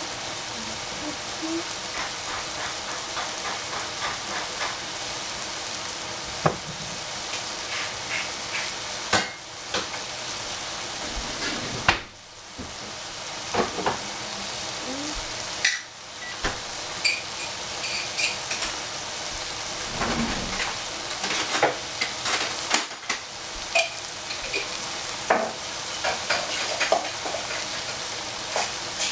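Noodles with cabbage and egg sizzling steadily as they fry in an oiled pan, with scattered clicks and knocks of a utensil against the pan.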